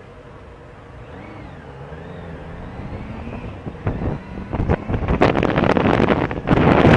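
Police motorcycle riding off and picking up speed, its engine pitch gliding up and down. Wind buffeting the microphone grows louder from about four seconds in until it covers everything else.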